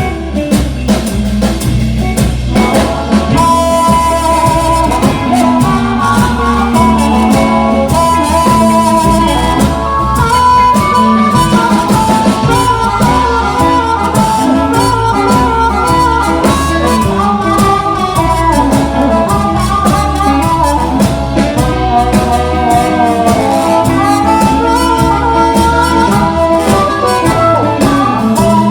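Blues harmonica playing an instrumental solo of bending, wailing lines over guitar accompaniment, with a steady beat underneath.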